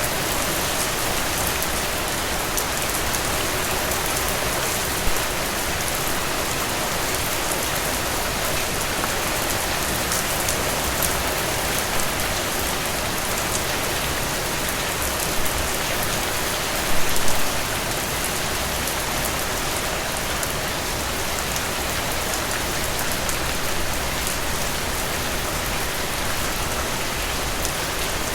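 Steady rain falling through trees, an even dense hiss with scattered individual drops. A brief cluster of louder, closer drops comes a little past halfway.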